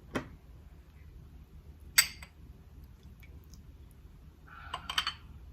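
A few small clicks and a sharp clink of containers or utensils being handled on a table, with a soft rustle and more light clicks near the end.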